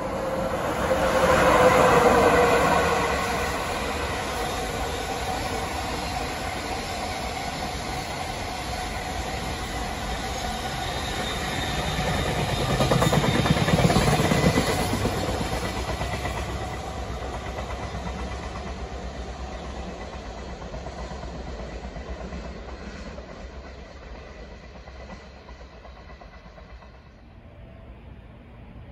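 Locomotive-hauled container freight train passing at speed, with a steady rumble and the clatter of wagon wheels over the rail joints. It swells loudly about two seconds in as the locomotive goes by, swells again midway as the wagons pass close, then fades away.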